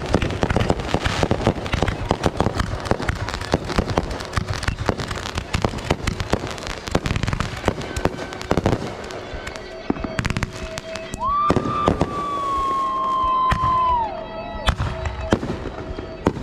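Fireworks finale: a rapid barrage of bangs and crackling from aerial shells, densest in the first half and thinning out later. About two-thirds through, a long high whistling tone holds for a few seconds, then falls away.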